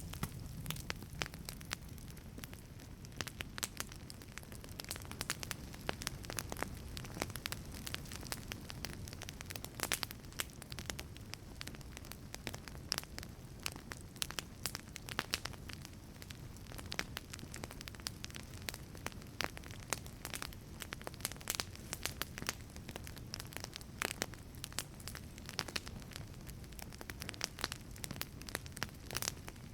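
Wood fire burning in a wood-fired pizza oven: a steady low rumble of flame with frequent, irregular sharp crackles and pops.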